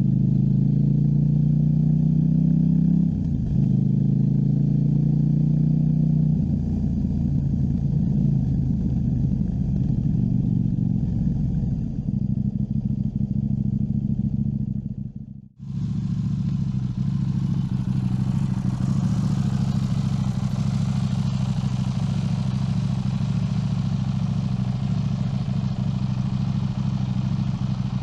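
KTM 790 Duke's parallel-twin engine running at a fairly steady pace while riding, with road and wind noise. The note shifts about three seconds in, cuts out briefly near the middle, and comes back with more wind hiss.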